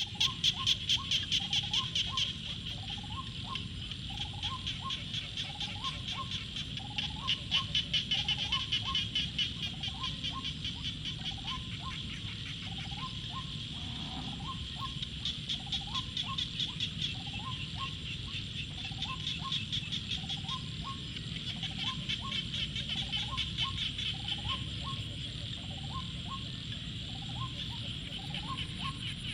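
Evening rice-paddy chorus of small frogs and birds: a dense, fast-pulsing high chorus that swells and fades in waves, over a short rising call repeated about once or twice a second.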